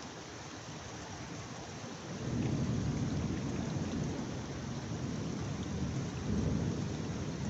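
Heavy rain falling steadily, with a low rumble of thunder rolling in about two seconds in and swelling again near the end.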